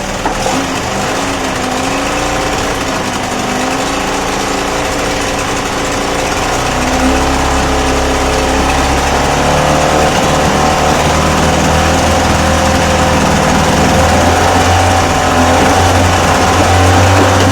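Old Mariner 25 hp outboard motor running steadily; about seven seconds in its note deepens and it grows a little louder.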